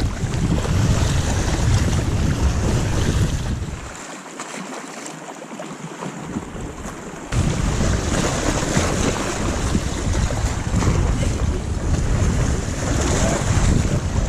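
Strong wind buffeting the microphone, a loud low rumble with waves washing on the lake beneath it. The rumble drops away for about three seconds in the middle, then comes back.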